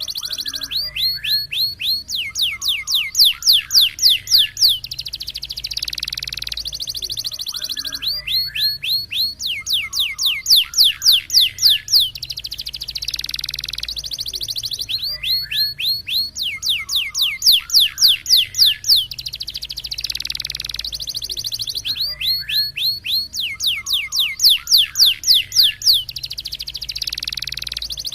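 Domestic canary singing a roller-type, rapid-fire song. Each phrase is a string of quick downward-sweeping whistled notes followed by a fast buzzing trill, and the same phrase repeats about every seven seconds.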